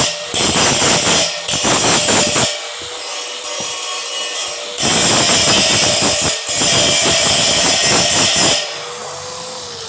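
Electric arc welding on steel tubing: a loud crackling hiss in two long runs, about two and a half and nearly four seconds long, with a short break between.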